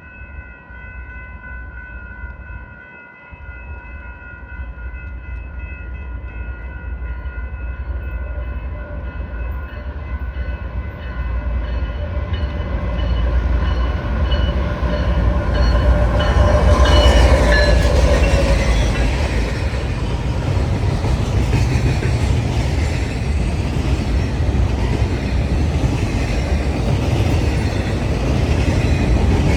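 Horn of a BNSF train led by two GE Evolution Series diesel locomotives, a steady multi-note chord that grows louder as the train approaches and stops about seventeen seconds in. The locomotives' engine rumble builds under it, followed by the rumble and clickety-clack of the intermodal cars rolling past.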